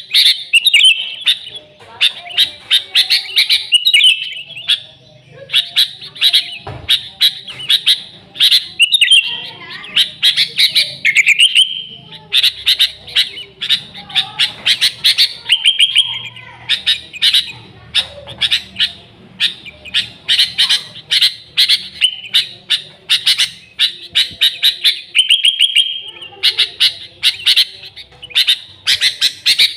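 Sooty-headed bulbul (kutilang) singing lively and loudly, with a dense run of quick chirps and short whistled phrases repeated with hardly a pause.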